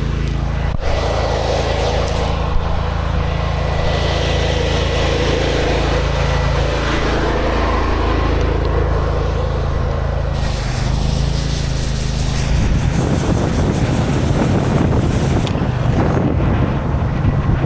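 An engine running steadily. About ten seconds in a hiss joins it, and the low rumble turns rougher.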